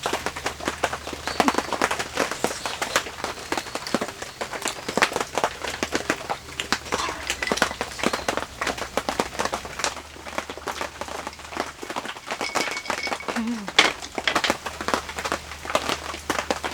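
Rain falling, with many irregular sharp drop taps on nearby surfaces.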